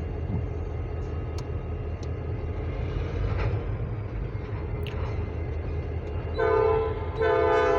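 Diesel freight locomotives rumbling steadily as they approach, led by an EMD SD40. Near the end the lead locomotive's air horn sounds, a short blast and then a longer one, several notes together.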